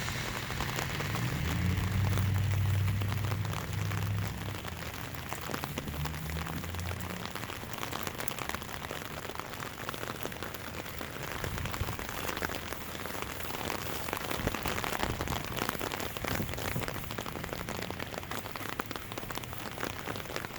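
Steady rain falling and pattering on surfaces, with many small drop ticks. A low rumble lies under it at the start and fades out about seven seconds in.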